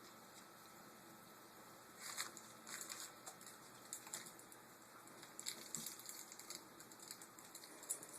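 Faint, scattered light clicks and taps, typical of a dog's claws ticking on a hard floor as it moves about.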